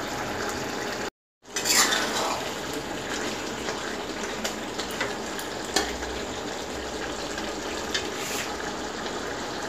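Green chilli chicken cooking in a pan with a steady sizzle, and a spoon stirring and clinking against the pan a few times.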